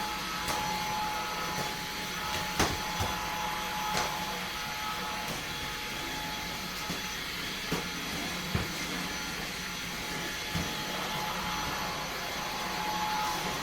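Eufy HomeVac S11 cordless stick vacuum running steadily with a constant whine, broken by a few short sharp clicks.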